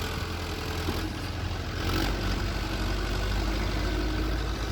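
Mahindra Arjun 555 DI tractor's diesel engine idling steadily, a little louder from about two seconds in.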